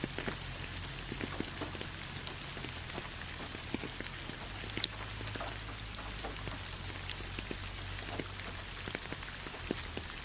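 Steady rain falling on fallen leaves: an even hiss with many separate drops pattering and ticking on the leaves at irregular moments.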